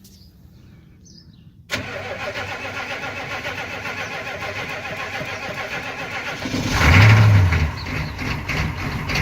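1982 Chevy K20's 6.2 litre Detroit Diesel V8 being cold-started. The starter cranks it for about five seconds, then the engine catches with a louder burst about seven seconds in and keeps running.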